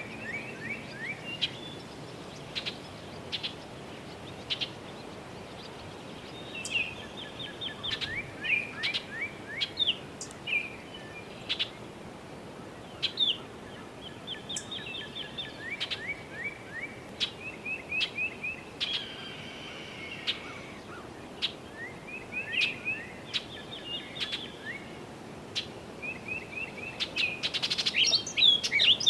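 Songbirds singing repeated runs of short, quick notes, with scattered single sharp taps from a woodpecker pecking on a tree, over a steady low background hum. The singing grows busier and louder near the end.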